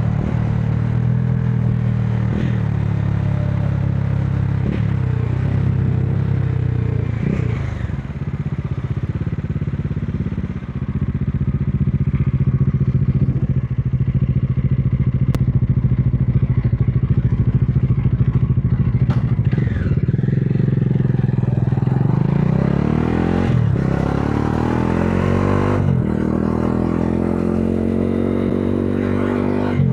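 Modenas Dominar 400's single-cylinder engine running under way in traffic, mostly at a steady pitch with a few brief dips. About two-thirds through, the engine note rises under acceleration and drops back twice at gear changes.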